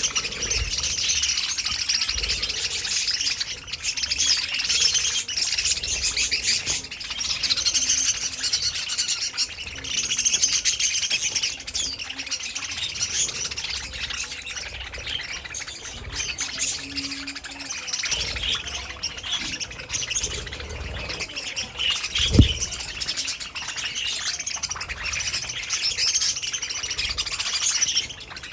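A flock of budgerigars chirping and chattering over one another without a break. A single sharp thump comes about three quarters of the way through.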